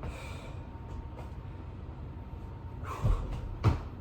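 Two dull thumps, about three seconds in and again just over half a second later: a body hitting the floor during a burpee, over a steady low background rumble.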